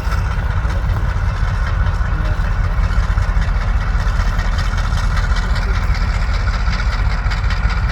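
Diesel locomotive engine idling: a steady, heavy low rumble with a constant high whine on top.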